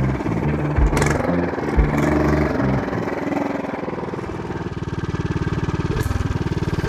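Mini bike's Tillotson 212cc single-cylinder engine running and revving under throttle as the bike is ridden, its firing pulses steadier through the middle.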